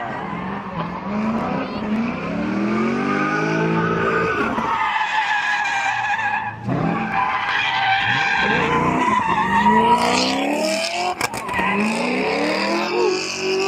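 Car engine revving hard over and over, its pitch climbing several times, while the tires squeal and skid: a burnout or donuts that leaves tire smoke.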